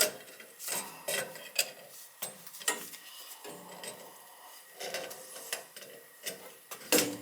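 Hand tools and metal parts being handled: a string of irregular clicks, clinks and short knocks, with a louder knock near the end.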